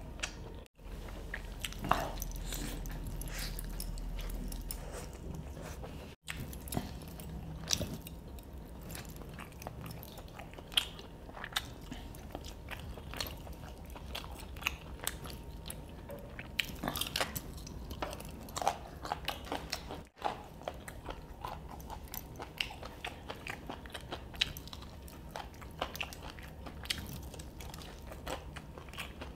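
Close-miked biting and chewing of fried chicken leg pieces: irregular sharp clicks of teeth and crust, with no talking.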